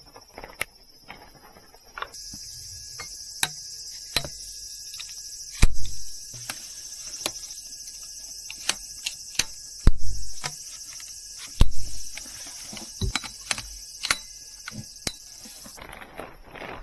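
Steady, high-pitched chorus of insects, with scattered sharp clicks and knocks over it and three loud thumps about 6, 10 and 12 seconds in.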